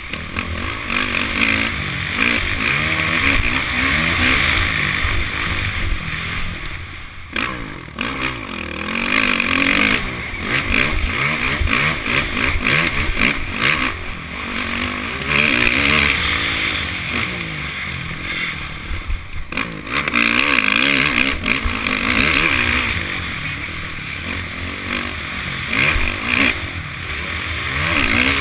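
Honda CRF450 motocross bike's single-cylinder four-stroke engine revving up and falling back again and again as it is ridden hard around the track. The throttle is shut off briefly twice, about a third and two-thirds of the way through.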